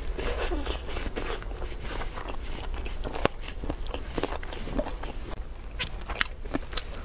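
Close-miked eating sounds: a person chewing and sucking steamed chicken, with irregular wet smacks and small crackles. Near the end, a plastic-gloved hand tears into the whole chicken. A low steady hum runs underneath.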